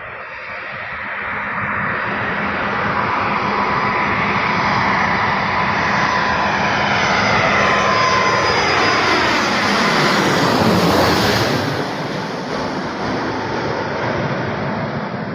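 Airbus Beluga cargo jet's engines coming in to land as it passes near. The noise swells to its loudest about eleven seconds in, with a whine that sweeps down in pitch as the plane goes by, then eases off.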